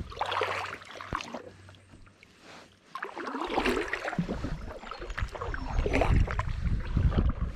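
Kayak paddle blades dipping into and pulling through river water, a splashing stroke roughly every two and a half seconds.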